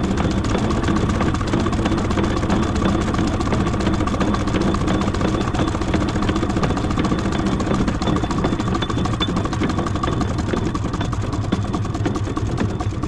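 Miniature steam traction engine running steadily as it crawls in bottom gear, a continuous fast mechanical clatter with a steady whine.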